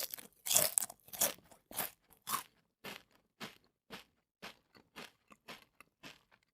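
A child chewing a crisp piece of fruit: crunchy chews about twice a second, growing fainter until they stop near the end.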